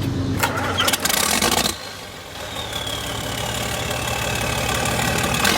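Antique farm tractor engines running, heard in short clips cut together. The first runs with some rattly knocks, and the second runs steadily with a faint falling whine.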